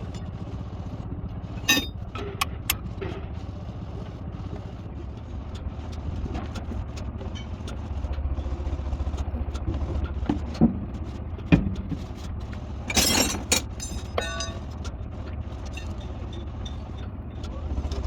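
An engine running steadily with a low hum, with several sharp metallic knocks and clanks scattered through it and a short harsh burst of noise about two thirds of the way in.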